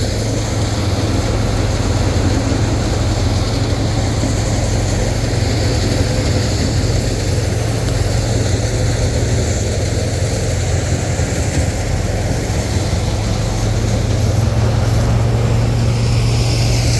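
Combine harvester running steadily in the rice field, a loud unbroken engine drone with a strong low hum.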